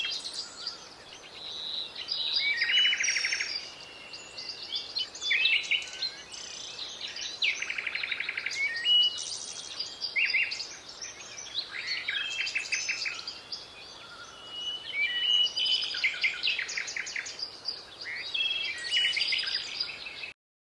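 Birds chirping and calling busily, with many short chirps and quick runs of rapidly repeated notes; the sound cuts off suddenly near the end.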